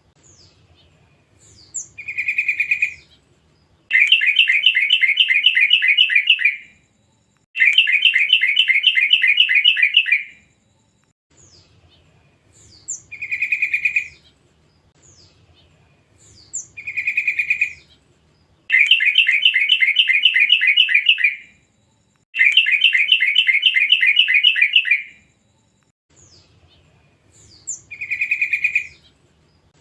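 Yellow-vented bulbuls (trucukan) calling. Short bubbly phrases alternate with long, rapid chattering trills of two to three seconds each, in a pattern that repeats about every fifteen seconds.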